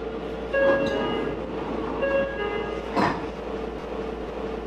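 Inside a Meitetsu 4000 series electric train car standing at a station: a steady hum, two short chime tones about a second and a half apart, then a single thump about three seconds in.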